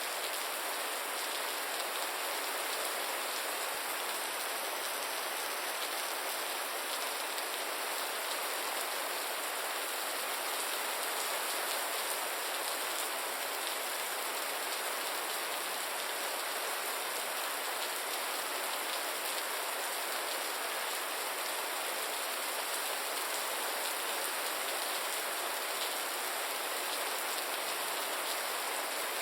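Gentle rain falling steadily, an even hiss of many drops with no breaks or change in strength.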